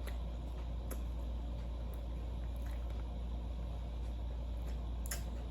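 Someone chewing food close to the microphone, with a few small wet mouth clicks, over a steady low hum.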